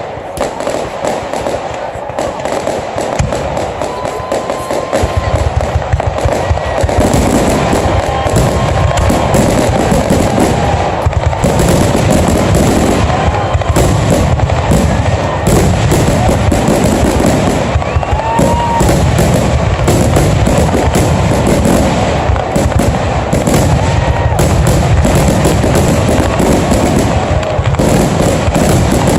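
Fireworks display: a dense, nonstop barrage of shell bursts and crackling that grows louder and heavier about six seconds in, with a few short whistles among the bangs.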